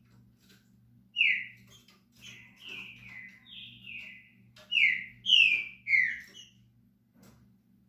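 Green-winged saltator (trinca-ferro) singing: a phrase of about ten loud whistled notes, each sliding downward, starting about a second in and ending about a second before the end.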